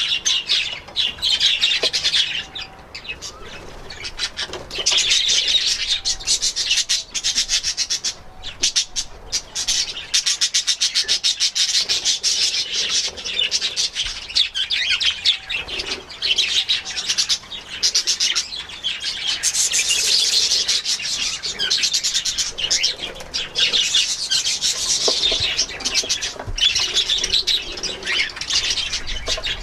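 Budgerigars chattering and warbling, with a fast, continuous twittering broken by a few short lulls.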